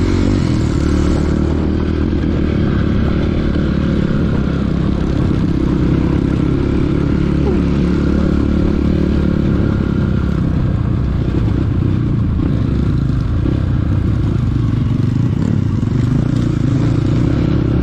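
Trail motorcycle engine running steadily while the bike is ridden, its note holding fairly even with no clear revving.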